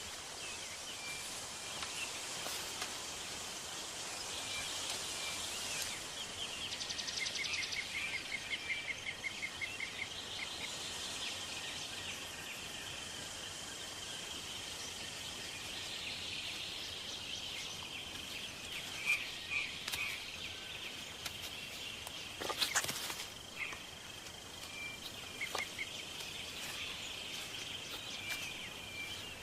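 Forest ambience: a steady high insect drone with bird chirps and short call series scattered through, and a few sharp snaps about three-quarters of the way in.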